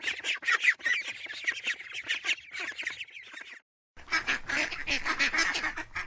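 Ducklings peeping: many short, high calls in quick succession. They break off briefly just before four seconds in, then the peeping resumes over a faint low hum.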